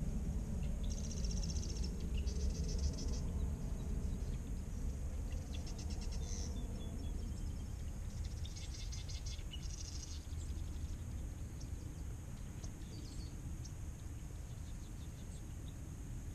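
Small birds in the marsh reeds singing several bursts of rapid, high trills, each lasting one or two seconds and mostly in the first ten seconds, over a steady low rumble.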